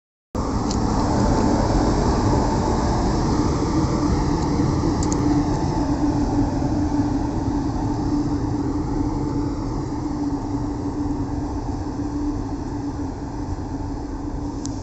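Indian Railways goods train running: a steady rumble with a steady hum that slowly grows quieter.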